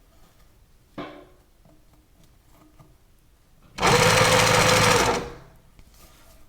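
High-head sewing machine running in one short burst of about a second and a half, with a steady motor tone, then winding down. A single short knock comes earlier, about a second in.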